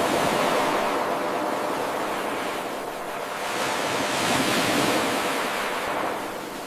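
Ocean waves washing onto a shore: a steady rush of surf that swells and ebbs, building to a stronger surge about four seconds in and easing off near the end.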